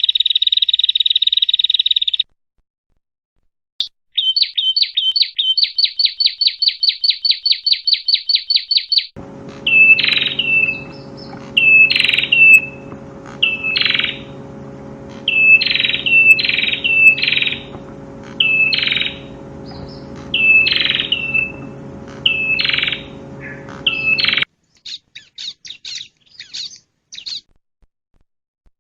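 Small songbirds calling in separate bursts: first a buzzy trill, then a fast run of repeated notes, then sharp down-slurred chirps about once a second over a steady low hum, and faint short notes near the end.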